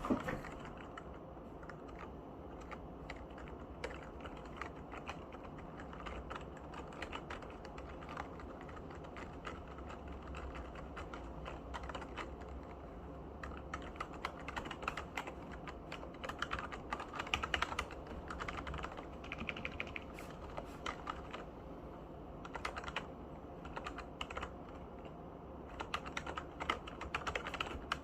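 Typing on a Skydigital nKeyboard NKEY8K gaming keyboard: a steady run of key clicks, with faster, louder flurries of keystrokes about halfway through and again near the end.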